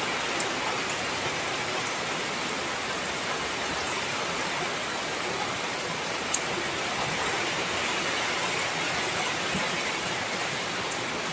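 Heavy rain falling steadily, an even hiss with a few scattered drop ticks.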